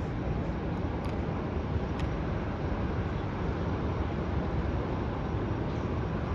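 Steady low rumble and hiss of the airport surroundings, with a couple of faint clicks about one and two seconds in.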